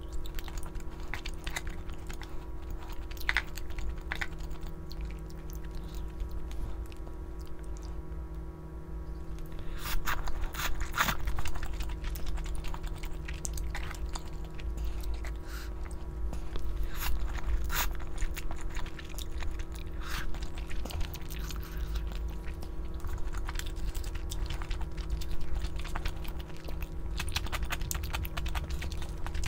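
Close-up eating sounds: irregular chewing and crunching with small clicks, over a steady low hum.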